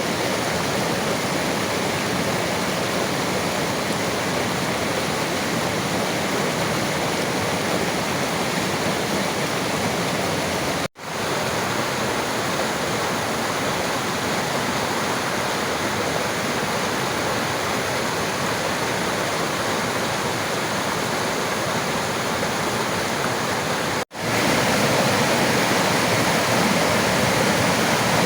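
River water flowing: a steady, even rush. It drops out for an instant twice, where clips are joined, and is a little louder after the second gap.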